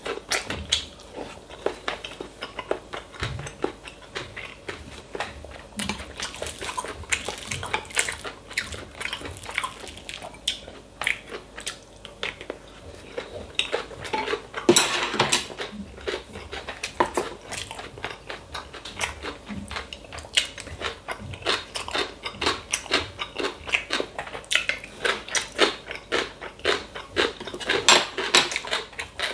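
Close-miked eating of bibimbap: chewing and biting, with a metal spoon repeatedly clinking and scraping against the bowl.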